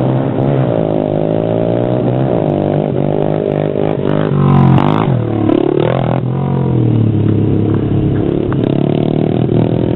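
Pit bike engines revving, their pitch climbing and falling again and again, with a sharp rev up and back down about halfway through.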